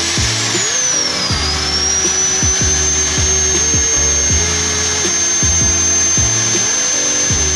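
Handheld electric drill running at high speed. Its motor whine dips about a second in, as if under load, then climbs back and holds steady, over background music.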